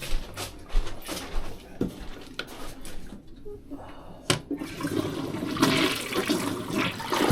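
A few clicks and knocks, a sharp click about four seconds in, and then a toilet flushing, with rushing water that builds toward the end. The flush goes right down: this toilet drains freely.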